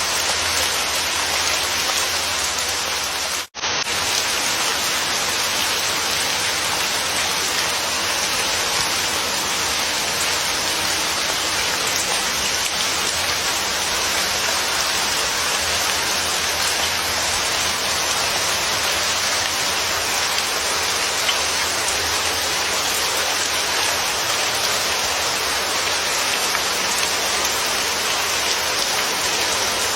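Steady, even rain falling, with no thunder. The sound cuts out for a split second about three and a half seconds in, then carries on unchanged.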